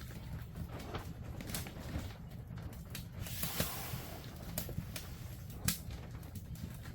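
Scattered light clicks and knocks, a few of them sharper, over a steady low hum.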